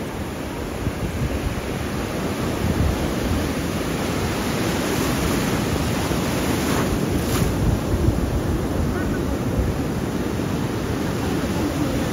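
Sea surf washing onto a sandy beach in a steady rush, swelling a little louder now and then, with wind rumbling on the microphone.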